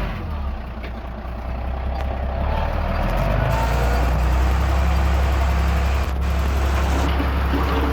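Heavy diesel earthmoving machinery running under load, with a deep steady engine hum; it grows louder over the first few seconds.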